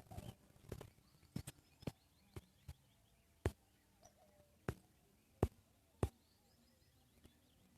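A series of sharp, irregular clicks and taps, about ten in all and louder in the second half, over faint high chirping in the background.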